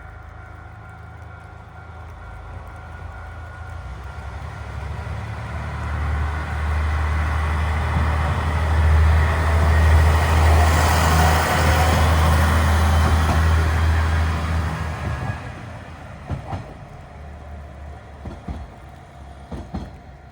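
Kishu Railway diesel railcar passing by: the engine's low hum and the wheel noise build over several seconds, peak, and fade away, with a few sharp knocks near the end.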